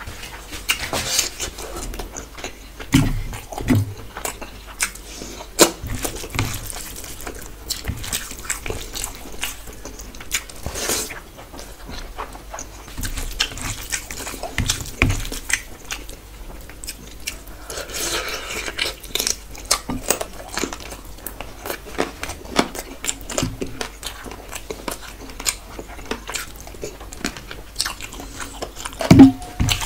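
Close-miked eating: chewing, with wet mouth clicks and smacks, as a person eats curry and rice by hand. The sounds are irregular, with a brief louder sound near the end.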